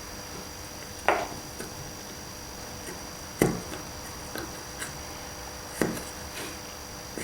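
Small wooden and brass parts knocking on a workbench as brass wire is fitted through holes in a craft-stick model truss: three sharp taps, about a second, three and a half and six seconds in, with softer clicks between.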